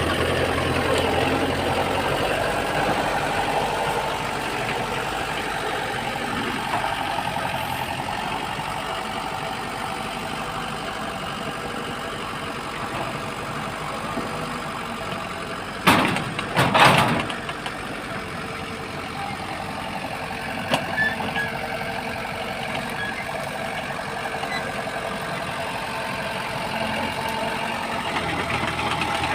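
Tractor engine running steadily, easing down over the first half and building up again near the end, with a short burst of clattering knocks about sixteen seconds in.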